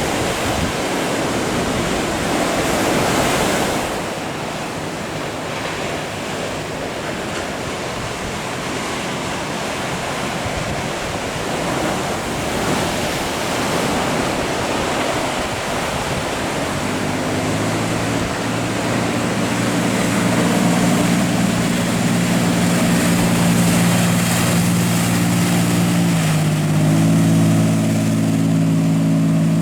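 Ocean surf breaking in a steady wash of noise. About halfway through, an engine's steady hum joins it and shifts pitch near the end.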